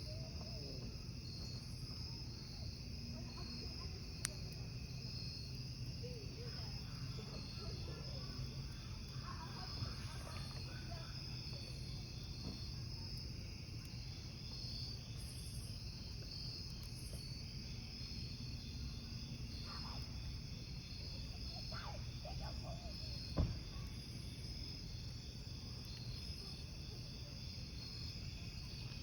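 Crickets chirping steadily over the low rumble of a wood campfire, with a few sharp crackles from the burning wood; the loudest pop comes about two-thirds of the way through.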